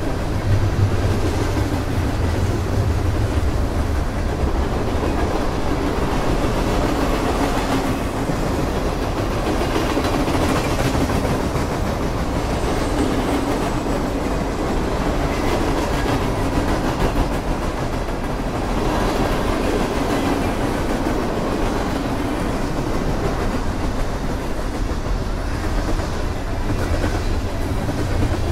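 Freight cars of a long mixed freight train rolling past: a steady rumble of steel wheels on rail.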